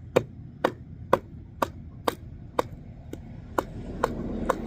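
Hatchet chopping kindling with steady, evenly spaced strikes, about two a second, each giving a short ringing knock.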